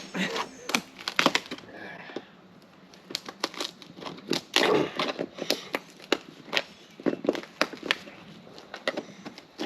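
Styrofoam roof insulation being broken and pried off a pop-up camper roof panel: irregular crackling and crunching with sharp snaps, some in quick clusters.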